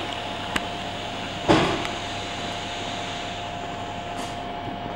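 TLK passenger train rolling slowly to a stop at a platform, heard from inside a carriage: a steady hum with a thin constant whine. There is a light tick just under a second in and one heavy knock about a second and a half in, the wheels going over a rail joint at low speed.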